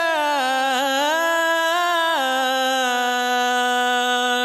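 A lead vocal from a pop rock song, heard alone through a buss compressor plug-in, holding one long sung note. The note steps down in pitch about two seconds in.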